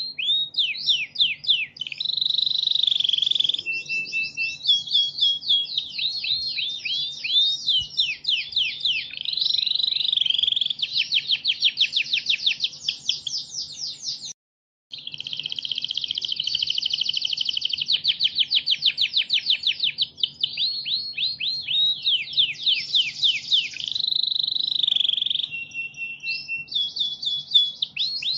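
Domestic canary singing continuously: fast rolling trills and runs of rapidly repeated sweeping notes, with a few short steady whistled notes. The song cuts out completely for about half a second midway, then resumes.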